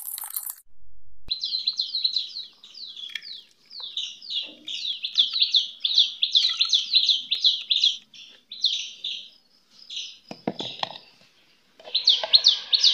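Small bird chirping in a rapid, even series of short, high falling chirps, about four a second, with a few brief knocks about ten and a half seconds in.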